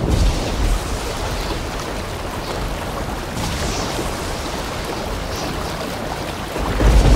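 Heavy rain falling, a steady hiss of water.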